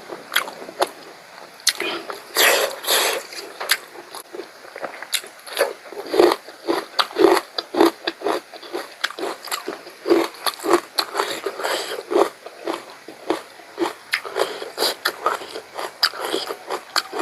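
Close-up eating sounds: a person chewing and smacking through mouthfuls of pork curry, a rapid irregular run of short wet clicks and smacks.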